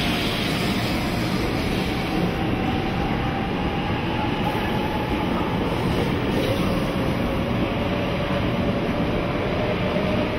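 A 500 series Shinkansen bullet train running past close by along the platform: a steady rush of running noise with a faint humming tone that slides slowly in pitch.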